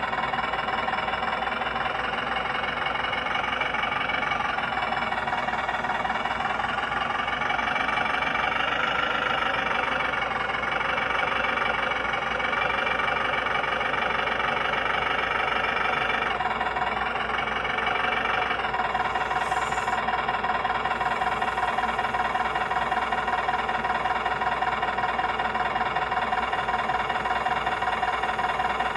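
Simulated diesel truck engine from a 1/14-scale RC semi truck's sound unit, running steadily at idle, its pitch shifting a few times as it is throttled. A brief high hiss about two-thirds of the way through.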